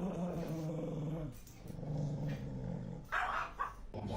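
A dog growling: two long, low, steady growls, then a short, sharper snarl about three seconds in.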